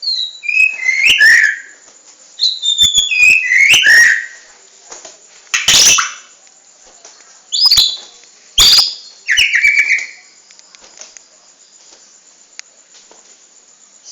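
A songbird singing short whistled phrases, each a few clear notes gliding downward in pitch, with a few loud, short noisy bursts between them. The song stops in the last few seconds.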